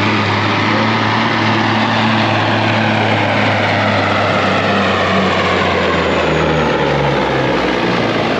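A large truck engine running loud and steady, its pitch dropping about six to seven seconds in.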